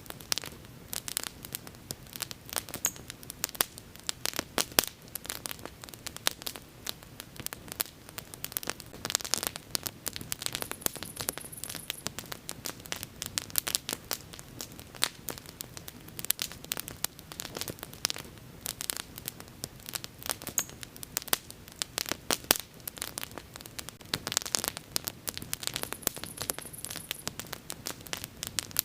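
Wood bonfire crackling: dense, irregular snaps and pops over a low steady hiss of burning.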